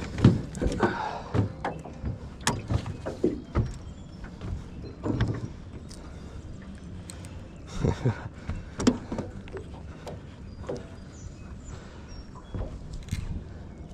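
Irregular knocks and clunks of fishing gear and the boat while a large striped bass is fought on rod and reel, still too strong to land.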